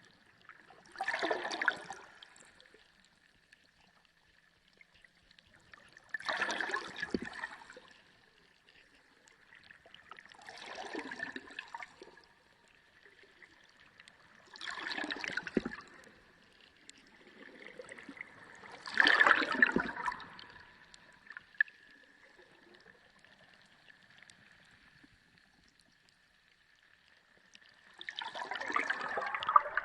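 Sea water surging and gurgling in six separate swells, about every four to five seconds, with a longer lull before the last one. A faint steady high tone runs underneath.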